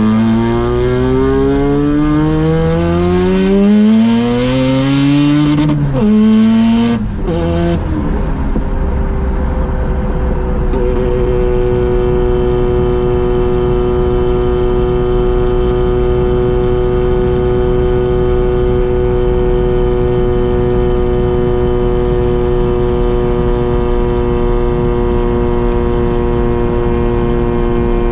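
Mazda RX-7's rotary engine and exhaust pulling hard, its pitch climbing for about six seconds, then two quick gear changes near six and seven seconds, after which it settles into a steady cruising drone.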